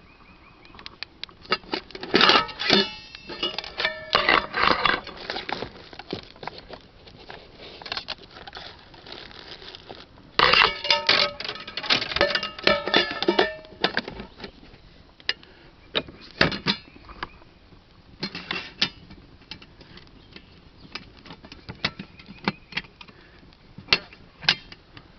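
Metal pieces of a cook kit clattering and clinking as they are handled, with short ringing tones, in two busy bursts about two seconds in and about ten seconds in, and scattered knocks between.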